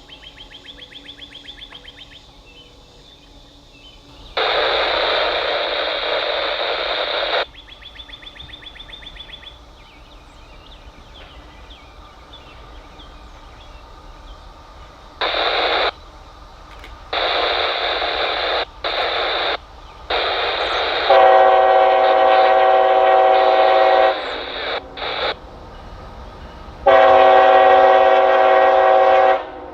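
Train locomotive air horn sounded in a horn show. One long blast comes about four seconds in, then after a pause a run of short and longer blasts, ending with a long blast near the end.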